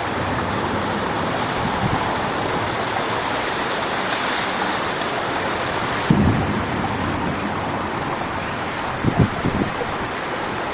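Strong wind blowing through coconut palm trees, a steady rushing noise, with gusts buffeting the microphone in low thumps about six seconds in and again about nine seconds in.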